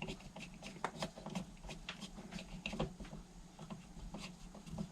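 Light, irregular clicks and taps of small metal parts being handled and fitted on a motorcycle carburettor body, as the float pin goes in.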